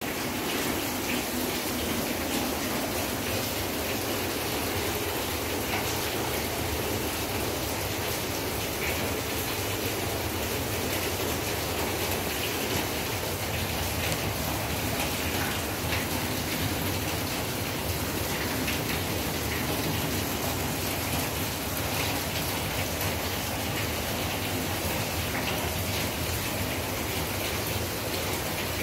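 Rain falling steadily, an even wash of water noise without a break.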